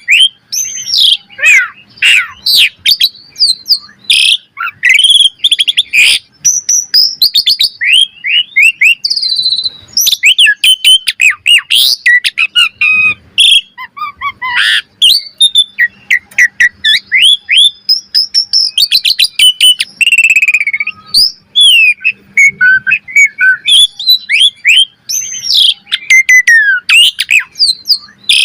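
Asian pied starling (jalak suren) singing a long, non-stop varied song of rising and falling whistles mixed with rapid clicking and harsh chattering notes.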